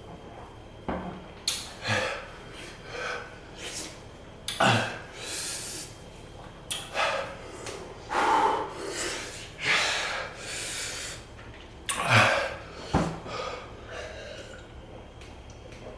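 A man breathing hard from the burn of a superhot chilli-extract lollipop: about a dozen loud, uneven huffs, gasps and snorts, a few of them with a voiced grunt, easing off near the end.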